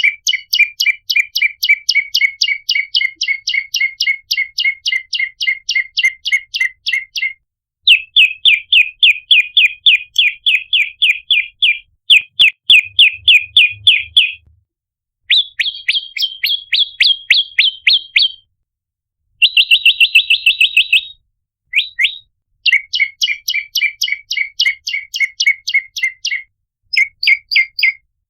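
Prenjak (small tailorbird/prinia-type songbird) calling in a lure recording: long runs of sharp, loud chirps at about four to five notes a second, broken by short pauses, with a quicker trill a little past the middle.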